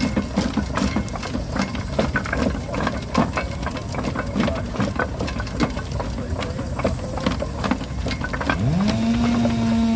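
Steam traction engines on the move, clanking and rattling with irregular knocks. Near the end a steam whistle sounds, rising in pitch as it opens, then holding one steady note.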